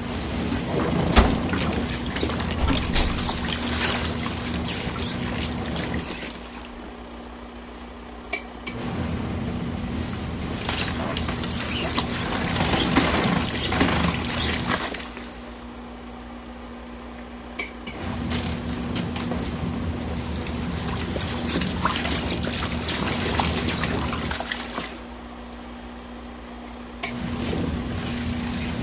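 Compact washing machine agitating a load in rinse water: splashing and sloshing over a low motor hum in runs of about six seconds, each broken by a pause of two to three seconds.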